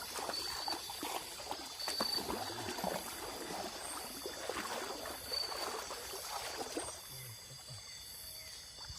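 River water splashing and trickling in quick, irregular small splashes as it is stirred by movement, easing off about seven seconds in.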